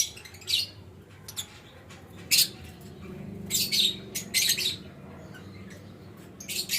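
Lovebird chicks giving short, high chirps and squeaks, one or a few at a time with pauses of about a second between them, and a quick run of calls near the middle.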